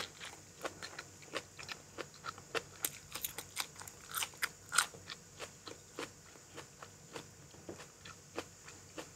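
A person chewing crunchy food close to the microphone: a quiet, irregular run of crisp crunches, about two or three a second.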